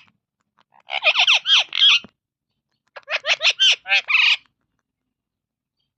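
Pet parrot calling in two quick bursts of rapid, chattering squawks, each burst a string of short, sweeping shrill notes.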